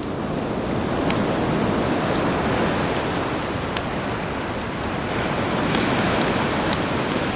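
Sea waves surging in two slow swells, with a campfire giving a few sharp crackles over them.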